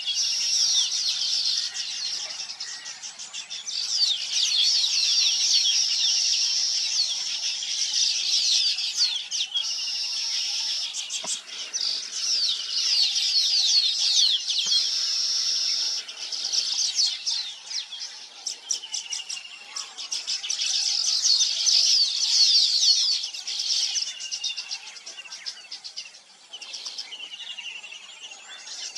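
A chorus of many small birds chirping and twittering at once, a dense stream of quick high chirps and short downward-sweeping notes that thins out for a moment now and then.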